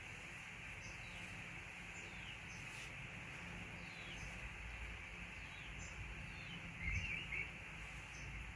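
Faint high bird-like chirps repeating over a steady background hiss and low hum, with a louder short burst of chirping about seven seconds in.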